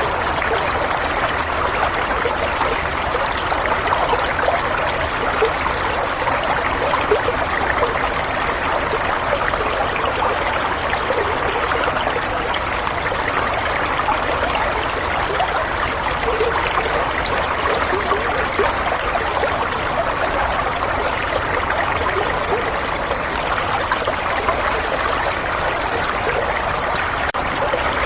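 Running water in a small stream, a steady trickling and babbling that does not change.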